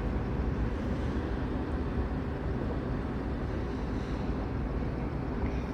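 Steady low rumble of a vehicle engine running, with no change in pitch or level.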